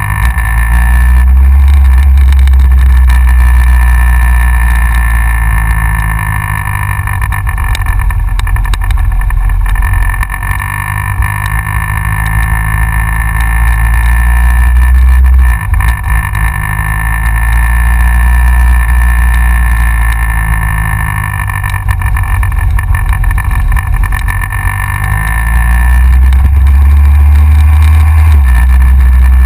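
Wind buffeting a GoPro mounted on the front of a moving Yamaha XJR motorcycle, over the bike's inline-four engine, whose note rises and falls as it accelerates and eases off, with a short break about halfway through.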